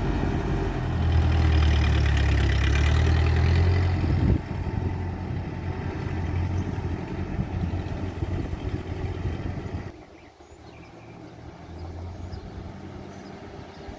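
A 1949 Ford 8N tractor's four-cylinder engine running under load. It is loudest for the first few seconds, falls off abruptly about four seconds in to a steadier, quieter run, and gets quieter still about ten seconds in.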